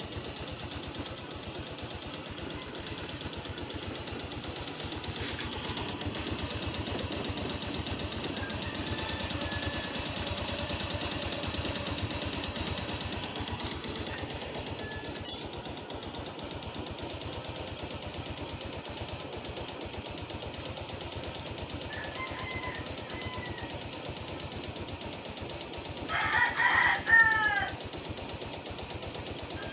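Motorcycle engine idling with a fast, even mechanical knock, the noise the owner puts down to piston slap. A rooster crows loudly near the end, and a single sharp click comes about halfway through.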